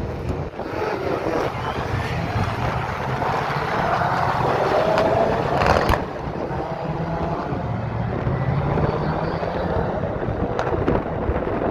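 Racing car engines passing on the circuit, their pitch rising and falling as they go by, under heavy wind buffeting on the microphone.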